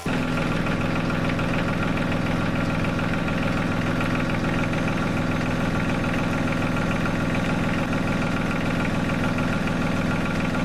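LS G3033 compact tractor's diesel engine running steadily at an even speed.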